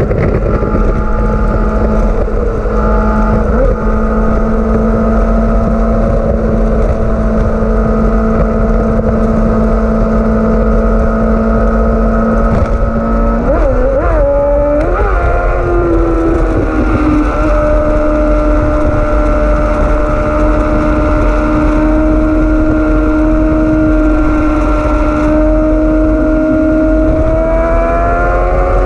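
Honda CBR600RR inline-four engine running at steady road speed under a heavy low rumble of wind on the microphone. About halfway through the revs waver and shift, then hold steady at a higher pitch and climb near the end.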